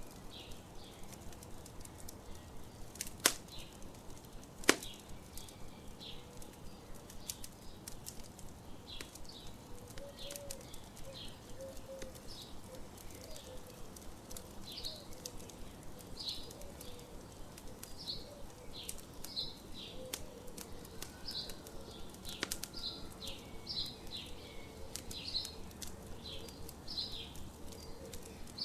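Campfire crackling, with two sharp pops about three and five seconds in, while birds chirp repeatedly, their short calls coming more often in the second half.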